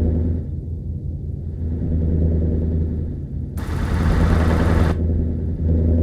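Scania V8 diesel engine running and being revved, its deep note rising and falling. About three and a half seconds in, a harsh, hissing-edged blast lasting about a second rides over the engine.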